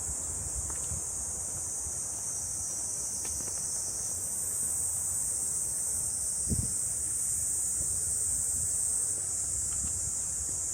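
Steady, high-pitched shrilling of a summer insect chorus in woodland, with a higher layer joining about four seconds in and fading near the end. Low rumble of wind on the microphone and soft thumps from the walker's steps underneath.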